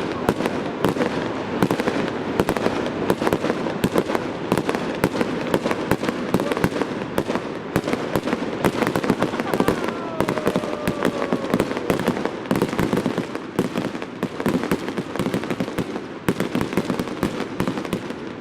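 Fireworks display: a dense, continuous barrage of bangs and crackling bursts, with a faint falling whistle about ten seconds in.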